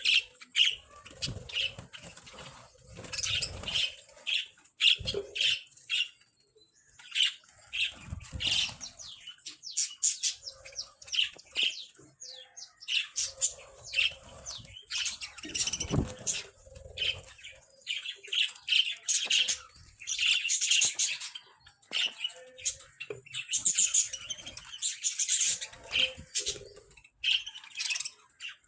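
Budgerigars chirping and warbling in a steady, busy stream of short high chirps, with a few dull thuds and flutters scattered among them.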